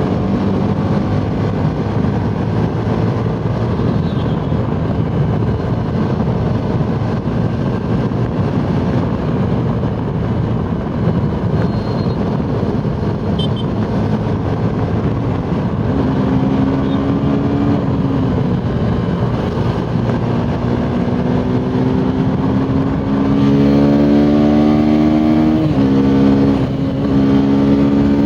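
Suzuki Gixxer SF 250's single-cylinder engine running hard at high speed over a steady rush of noise, its pitch slowly climbing. Near the end it gets louder, dips briefly and picks up again.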